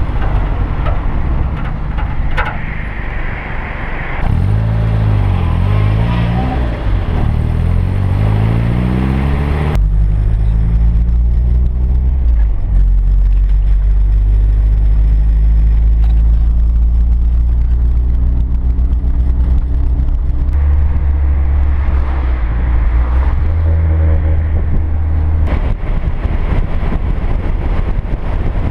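Triumph Herald 13/60's four-cylinder engine driving on the road, picked up by a camera mounted on the outside of the car, with road and wind noise. Early on, the engine note climbs and drops several times as the car accelerates through the gears, then holds a steadier drone while cruising.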